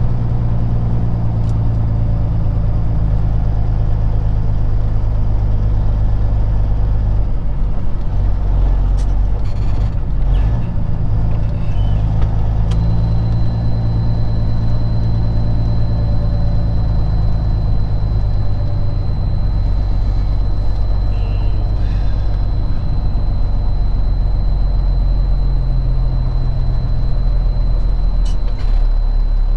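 Peterbilt 379 semi-truck's diesel engine running at low speed. Its pitch shifts for a few seconds about a third of the way in, and a thin, steady high whine joins it soon after.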